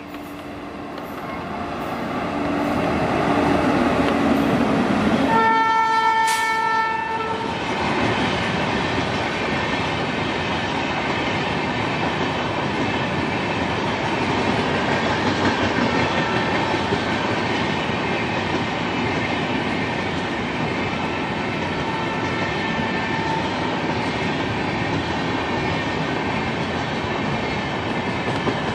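WAP-7 electric locomotive hauling a passenger express past at speed. The noise rises as it approaches, and the locomotive's horn sounds once for about two seconds, several tones together, about five seconds in. The coaches then run past with a steady rolling rush of wheels on rail.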